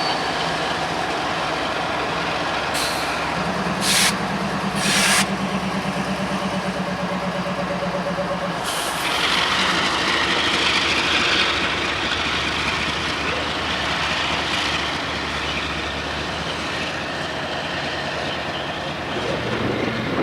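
Freight train at close range, with three short air hisses a few seconds in and a longer hiss about halfway through, over a steady low rumble.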